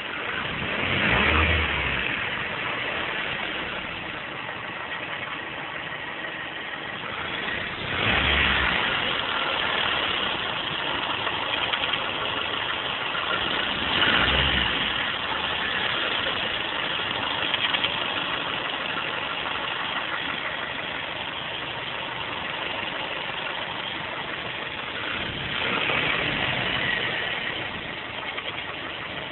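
Mazda 3's 1.6 Z6 petrol four-cylinder engine running with a knock, blipped up briefly four times. The Z6 has no hydraulic lash adjusters, and the uploader puts the knock down to valve clearances that need adjusting.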